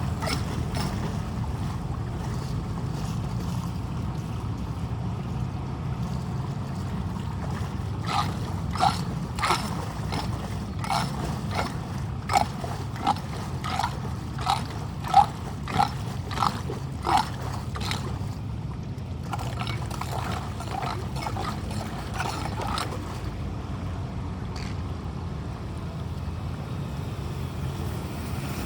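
Storm water running with a steady low rush, while a tool scrapes debris off a street drain grate in a run of about a dozen short, sharp strokes, roughly one a second, in the middle stretch.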